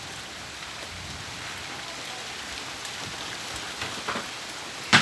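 Steady rain falling, with a few faint taps and one sharp click just before the end.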